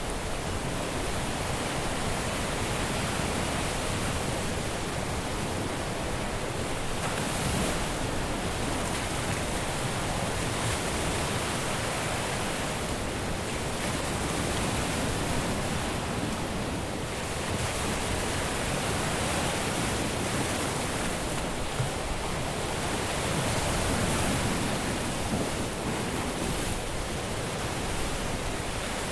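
Caribbean surf washing onto a beach, a steady dense rush of breaking waves that swells and eases every few seconds.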